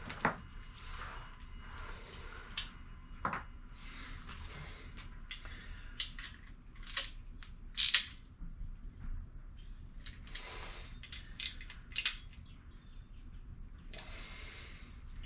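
Scattered light clicks, clinks and rustles of hand tools and metal engine parts being handled, spread irregularly with a few sharper clicks in the middle.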